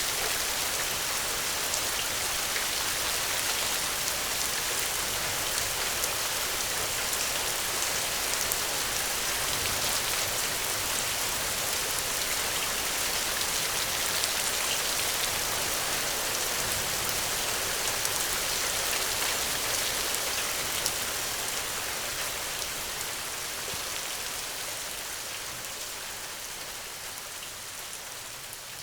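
Steady rainfall, a dense hiss of drops pattering on surfaces, fading out gradually over the last several seconds.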